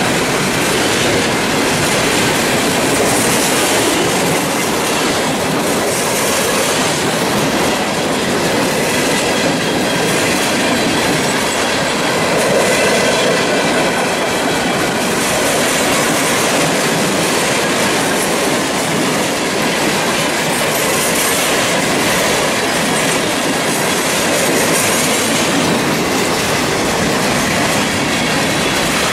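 Freight train cars rolling past at close range: a steady, loud rumble and clatter of steel wheels on the rails, with clacking over the track and some wheel squeal.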